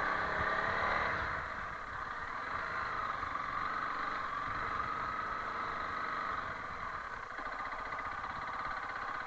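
Honda CRF300L Rally single-cylinder engine running as the motorcycle is ridden, with the engine note and level easing off about a second in.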